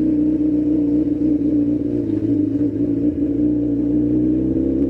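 Motorcycle engine running steadily at a constant pitch, a strong even hum with no revving.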